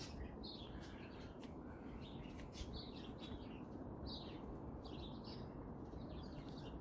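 Birds chirping faintly in short, scattered calls over steady low background noise.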